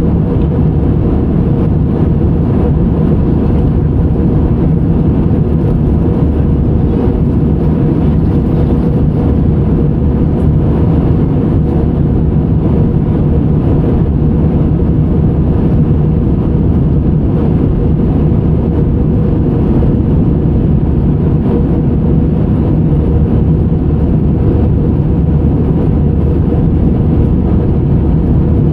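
Steady cabin noise of a jet airliner in flight: the low, even rumble of the engines and rushing air, holding constant without rising or falling.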